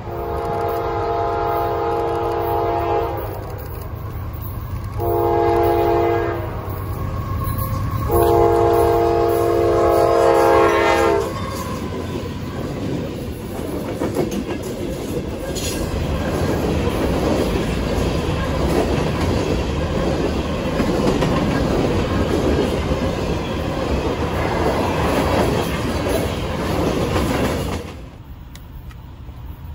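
A diesel freight locomotive's multi-chime air horn sounds three blasts, long, short, long. The train of empty rock cars then rolls past with engine rumble and wheels clattering over the rail joints. The sound cuts off suddenly near the end.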